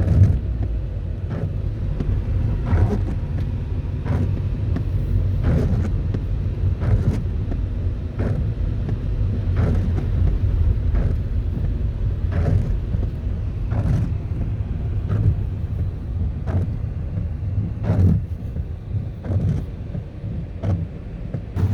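Steady low rumble of a car, with a short swish repeating about every one and a half seconds.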